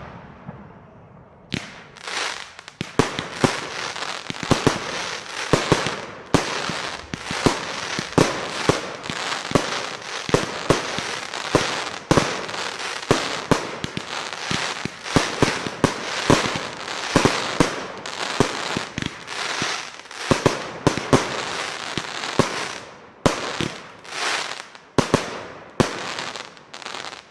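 Category F2 firework batteries firing a rapid barrage of bursts, several a second, over dense crackling. The shots become fewer and further apart near the end.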